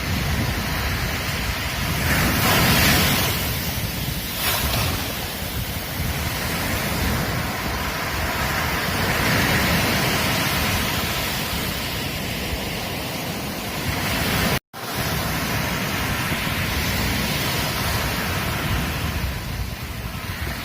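Ocean surf breaking and washing on a beach, swelling and easing every several seconds, with wind buffeting the microphone. The sound drops out for an instant about two-thirds of the way through.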